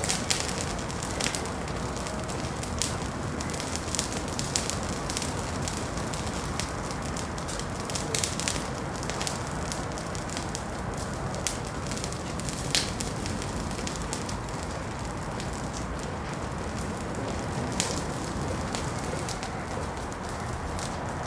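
Wood fire in a fireplace crackling, with irregular sharp pops and snaps over a steady hiss of burning.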